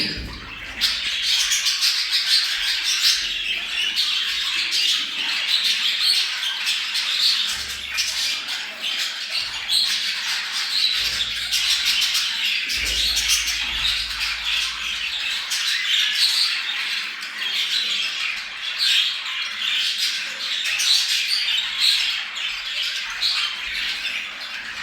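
A flock of budgerigars chattering and warbling without a break, many birds calling over one another: the excited calling of budgies in breeding condition.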